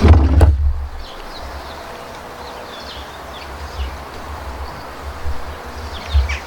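Outdoor ambience: wind buffeting the microphone in low gusts, with faint high chirps scattered throughout. A low knock or handling thump comes in the first second.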